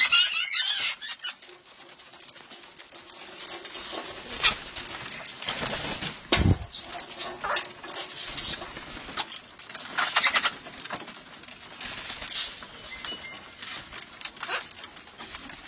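Wild birds being hand-fed: wings fluttering and rustling with scattered scratches and clicks as they land on hands and a seed bowl, a dull thump about six and a half seconds in, and low cooing calls.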